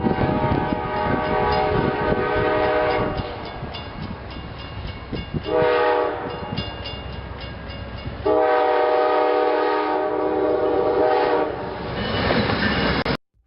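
A train's multi-note air horn sounds three blasts (long, short, long) over the rumble and rail clicks of the moving train. The sound cuts off suddenly near the end.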